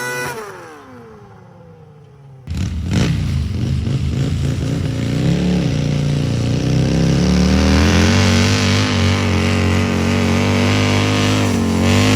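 A pulling tractor's engine winds down and fades, its pitch falling. About two and a half seconds in, a loud engine comes in abruptly, revving unevenly at first, then settling into a steady high-revving run that grows louder.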